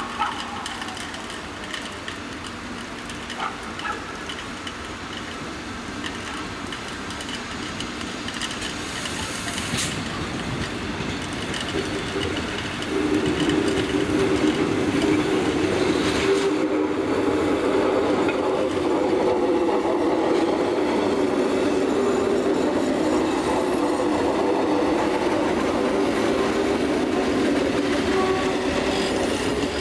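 A train moving through the station, growing louder about halfway through and then holding a steady drone with several low tones.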